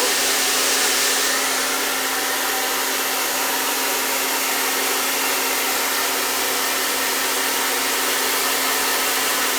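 Hand-held blow dryer running steadily: an even rush of air with a constant motor hum underneath.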